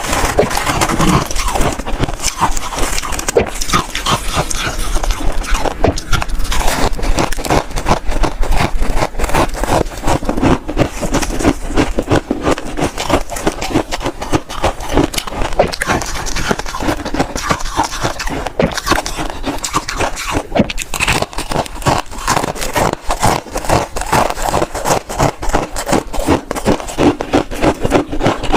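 Close-miked chewing and crunching of freezer frost: a dense, continuous run of rapid crisp crunches.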